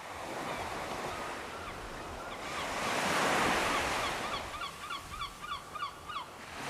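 Surf washing in, with a bird calling a quick run of short, repeated chirps, about three a second, that stop shortly before the end.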